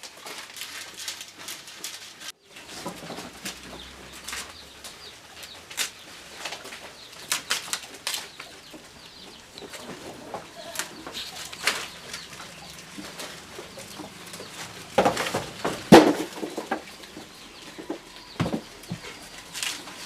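Goats feeding on leafy branches: irregular rustling and crackling of leaves with scattered snaps. About three-quarters of the way in there is a louder burst of sharp sounds.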